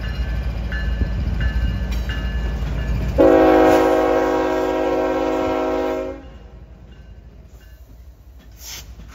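Norfolk Southern diesel freight locomotives rumbling past, with a bell dinging about every two-thirds of a second in the first two seconds. About three seconds in, a multi-chime air horn sounds one steady blast of about three seconds, then the engine rumble drops away as the locomotives move off.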